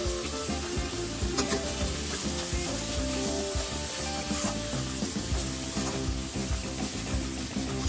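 Mashed green peas sizzling as they fry in oil in a steel kadhai, while a steel spatula stirs them, scraping against the pan now and then.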